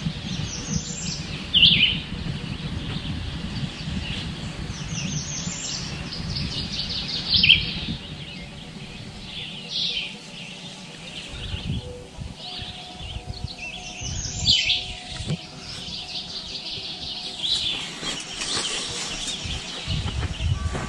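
Songbirds singing: short phrases of quick notes sliding downward, repeated every few seconds, over a low, uneven outdoor rumble.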